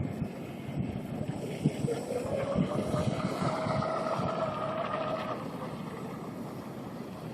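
Electric RC tunnel-hull boat's 1900kv outboard-style motor whining as the boat runs, its pitch rising slightly, then fading out a little over five seconds in. Wind rumbles on the microphone.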